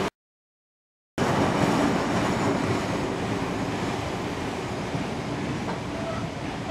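Passenger carriages of a train rolling past close by: a steady rumble of wheels on the rails that slowly fades. About a second of dead silence breaks it just after the start.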